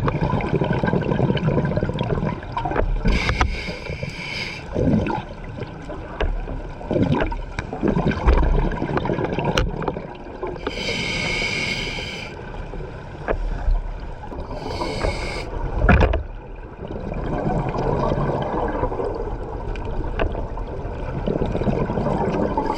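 A scuba diver breathing through a regulator underwater: a few short hissing inhales, about 3, 11 and 15 seconds in and again at the end, between long bubbling exhales.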